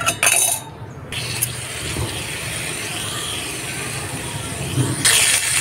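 Cauliflower florets frying in hot oil in a wok: after a few light clicks, a steady sizzle sets in, growing louder about five seconds in.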